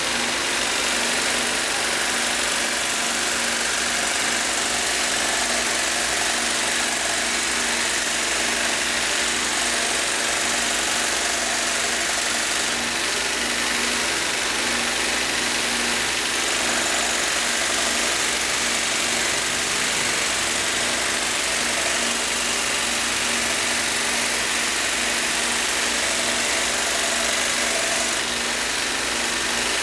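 Powered belt knife sharpener running steadily on a fine 15-micron plastic-film belt, a constant motor hum under an even hiss. The belt is the fine honing stage of the sharpening.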